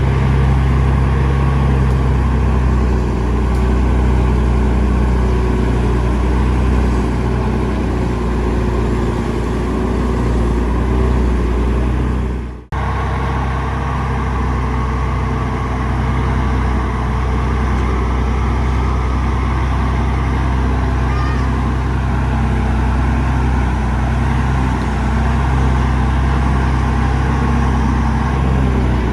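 Heavy diesel engine running steadily at an even pitch, cut off abruptly for a moment a little before halfway and then resuming.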